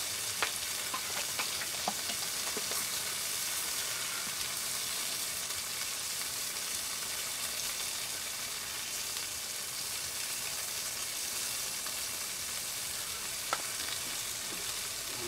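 Smash burger patties sizzling on a gas flat-top griddle under an aluminium pan, with buns toasting beside them: a steady frying hiss. A few faint clicks sound early on and again near the end.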